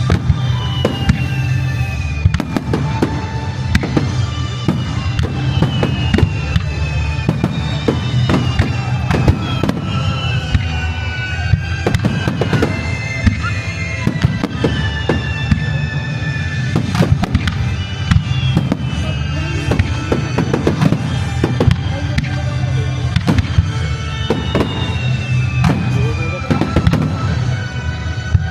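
Kagiya fireworks shells bursting in a dense barrage, many sharp bangs and crackles close together over a continuous low rumble. Music with repeated falling tones plays alongside.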